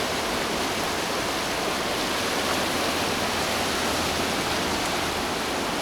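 The fast mountain Katun River rushing past, its churning, foaming water making a steady, even hiss.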